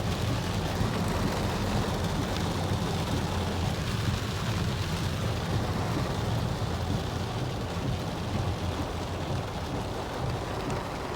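Heard from inside a car driving through heavy rain on a flooded road: a steady low rumble of the car and its tyres under the hiss of rain and water spray on the car.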